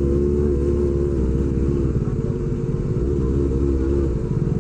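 Kawasaki Ninja ZX-25R's 250 cc inline-four running through an SC Project aftermarket exhaust, held at low revs with small rises and dips in pitch, as when creeping along in a traffic jam.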